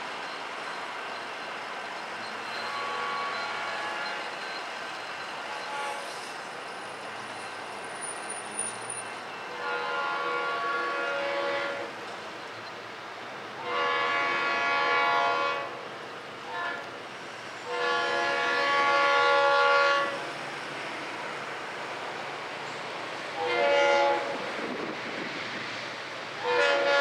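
Freight locomotive air horn sounding a chord in repeated blasts, getting louder as the train approaches. The blasts make the long, long, short, long grade-crossing signal, with more blasts before and after it, over a steady rumble from the train.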